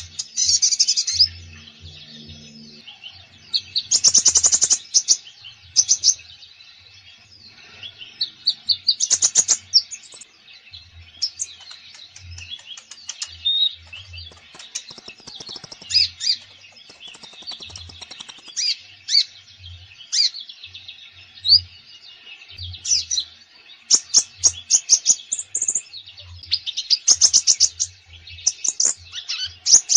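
Konin songbird singing vigorously in a varied run of sharp chirps and fast high trills, with louder trilled phrases coming every few seconds. Short low thuds sound now and then underneath.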